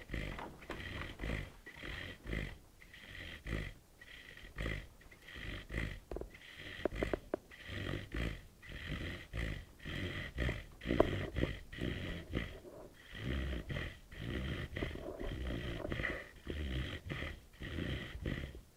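Sleeping puppy snoring and snorting in quick, regular breaths, with a couple of brief squeaky notes midway.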